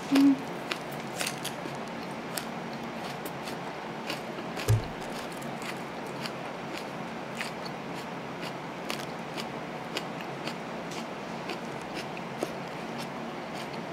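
Close-miked chewing of a mouthful of hamburger and raw onion: scattered crisp clicks and crunches at an irregular pace, with a short hum right at the start and a single low thump about five seconds in.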